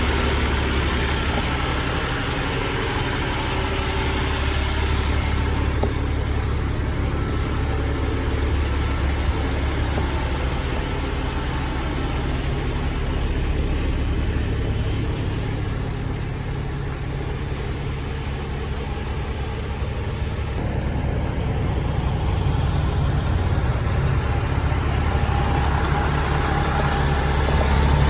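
A Cummins ISX diesel engine idling steadily in a Kenworth T800 truck, growing a little louder near the end.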